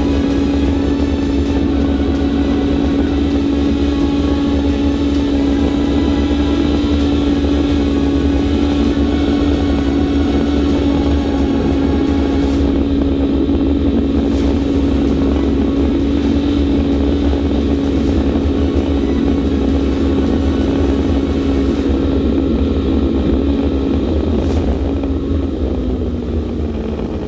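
Turbocharged Honda K20 2.0-litre four-cylinder heard from inside the CRX land-speed car's cockpit, running flat out at a steady high pitch over a loud rushing noise. Near the end the pitch slides down and the sound eases.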